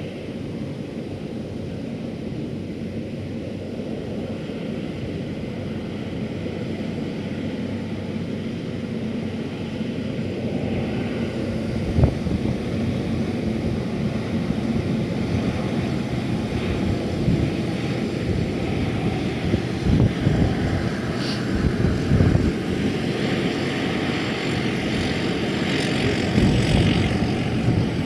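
Strong wind buffeting the microphone with low thumps, over a steady motor drone that slowly grows louder.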